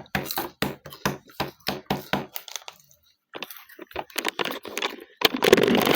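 Crunchy hot Cheetos being chewed close up, a quick run of crisp crunches about four a second, then a louder noisy stretch near the end.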